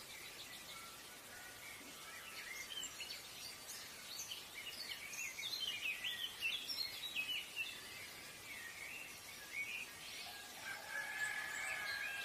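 Background birdsong: small birds chirping in many short, overlapping calls, busiest in the middle, with one longer steady note near the end, over a faint hiss.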